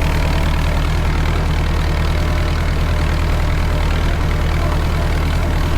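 Tractor engine running steadily while pulling a hay tedder, a low, even drone with no change in speed.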